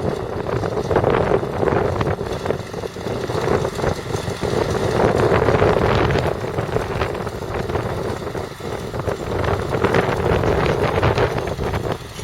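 The 14-litre six-cylinder diesel engine of a Fiat Versatile 44-28 articulated tractor running steadily, with wind buffeting the microphone.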